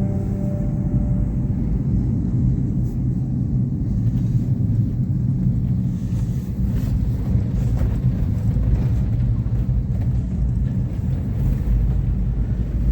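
Steady low rumble of a vehicle on the move, without rises or falls.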